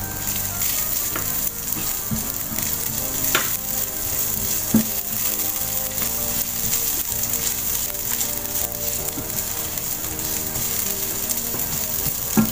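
Garlic and ginger sizzling steadily in hot oil in a non-stick frying pan while being stirred with a silicone spatula, with a few short knocks of the spatula against the pan.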